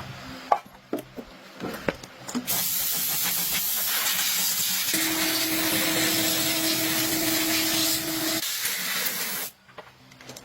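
A few clicks and knocks, then a steady loud hiss of spraying air or liquid that starts about two and a half seconds in and cuts off suddenly about seven seconds later, with a faint hum under its middle part.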